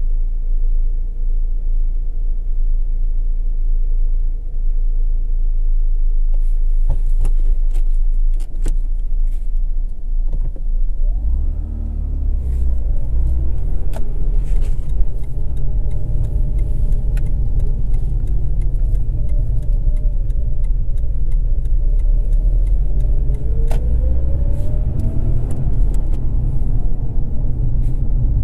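Mazda RX-8's twin-rotor rotary engine idling, then pulling away about ten seconds in, its note rising as the car accelerates and rising again a little later, over a steady road rumble. A few sharp clicks come shortly before it moves off.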